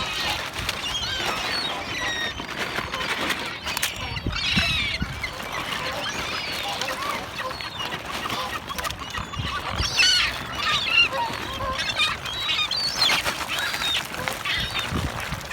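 A mixed flock of waterbirds, ducks and gulls among them, calling busily while being fed: many short calls overlapping one another, with a few louder calls around the middle.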